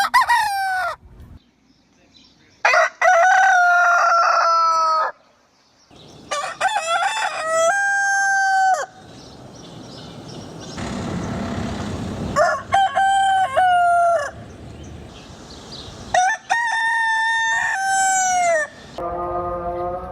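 Roosters crowing cock-a-doodle-doo, about five crows in a row, each a long call that ends in a falling note, with short gaps between them.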